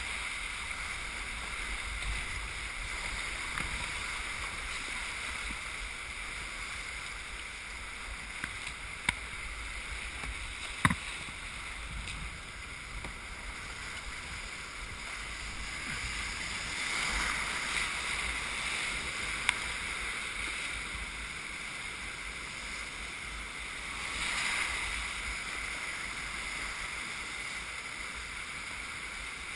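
Steady rush of river water around a kayak on a Class II-III river, swelling twice, with a few sharp knocks.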